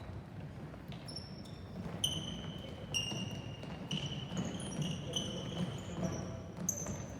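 Athletic shoes squeaking repeatedly on a hard indoor court floor, short high squeaks at slightly different pitches, with a few thuds of a ball bouncing.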